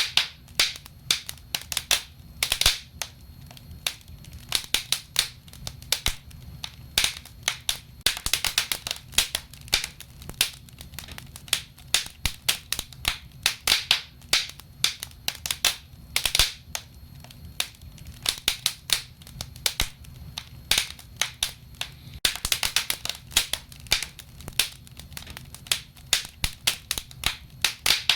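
Wood fire burning in a fireplace: irregular crackles and sharp pops, sometimes in quick clusters, over a low steady rumble of the flames.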